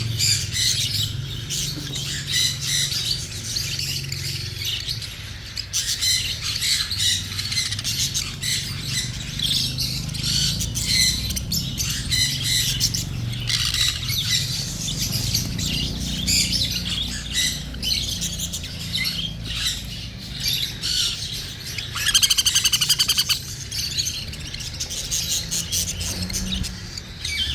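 Cockatiel giving repeated squawking and chirping begging calls while being hand fed, with a louder, rapid buzzing run of calls about twenty-two seconds in.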